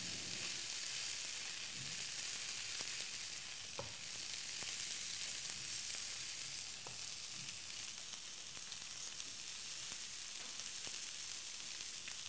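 Glazed chicken pieces sizzling on a hot grill pan as glaze is brushed over them: a steady frying hiss, with a few faint clicks.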